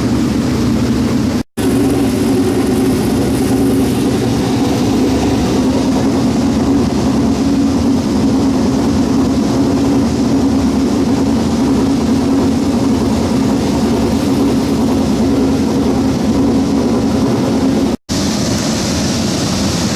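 USAC race car engines running steadily at a fairly constant pitch, broken by two brief dropouts, one just after the start and one near the end.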